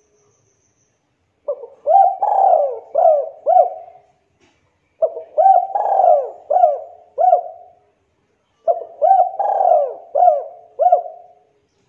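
Spotted dove (tekukur) cooing: three phrases of about five quick coo notes each, with a pause of a second or so between phrases.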